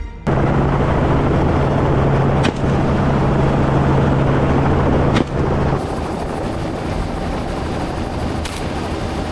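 Helicopter in flight: steady rotor and engine noise with a strong low hum, broken by two short sharp sounds. About six seconds in the sound changes to a thinner, slightly quieter steady noise.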